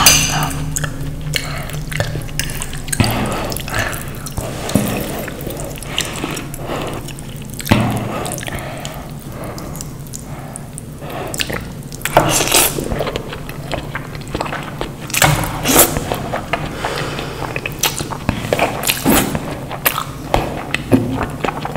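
Close-miked eating sounds: wet chewing and mouth clicks coming irregularly, with a low steady hum underneath.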